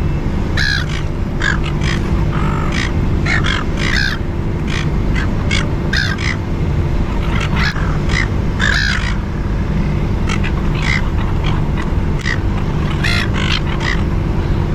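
A flock of silver gulls calling, many short squawks one after another and overlapping, over a steady low background hum.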